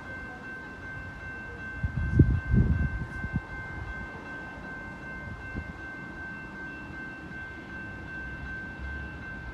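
Distant approaching train at a station: a steady high ringing of several tones, with gusts of wind on the microphone about two seconds in.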